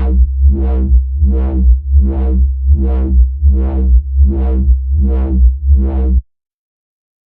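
Software-synth bass note (Arturia Pigments, built on an FM bass sample) held down, its resonant low-pass filter swept by an LFO into a regular wah pulse a little over once a second. The note cuts off suddenly about six seconds in.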